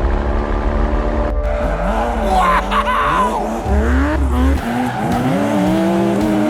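Vehicle engine revving up and down over a steady low hum, with a brief tire squeal about two and a half seconds in.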